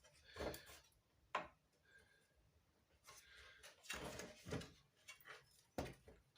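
Faint, scattered knocks and clicks with a stretch of scraping in the middle: sheet-metal toy parts being handled and a wheel being test-fitted against the body.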